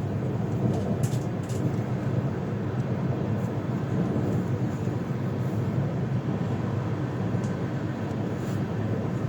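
Passenger train running: a steady rumble of wheels on the track, with a few faint clicks.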